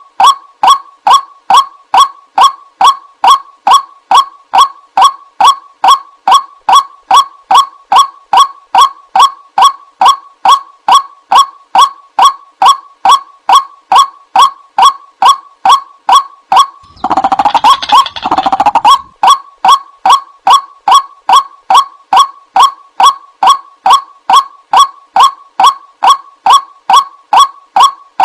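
White-breasted waterhen call played as a lure: short honking notes repeated evenly, a little over two a second. About 17 seconds in, a denser, harsher stretch of calling lasts about two seconds before the even notes resume.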